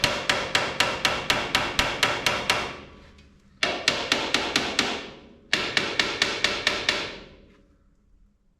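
Hammer blows ringing on steel, in three quick runs of about five strikes a second. The blows land on a rusted drag-link ball joint on a steering arm, trying to shock the seized joint loose.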